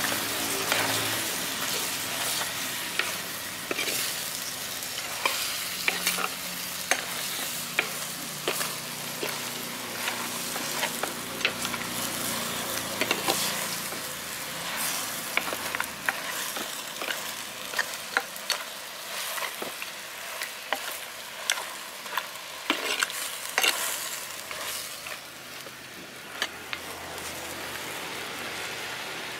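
Mutton pieces with spices sizzling and frying in a pot over a wood fire, stirred with a steel ladle that scrapes and clicks against the pot again and again. The stirring stops near the end, leaving the steady sizzle.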